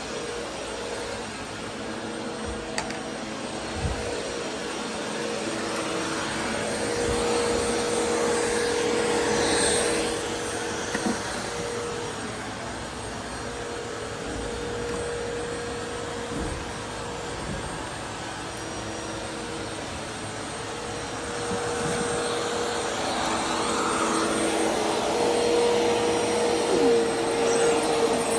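Vacuum cleaner running with a steady motor hum, swelling louder twice as it works the floor, with a few light knocks.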